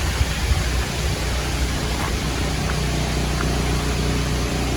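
Portable generator running with a steady low hum under an even rushing noise.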